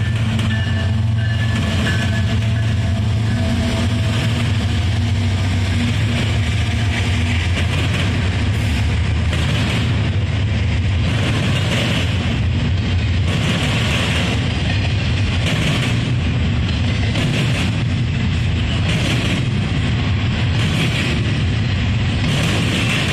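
Union Pacific diesel locomotives pass with a steady engine drone that fades over the first several seconds, then a double-stack container train rolls by: a steady rumble of steel wheels on rail with repeated clicks over the rail joints.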